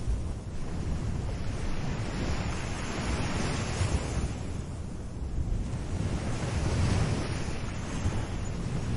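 Small ocean waves washing onto a beach, the hiss of each wash swelling and fading every few seconds over a steady low rumble of surf.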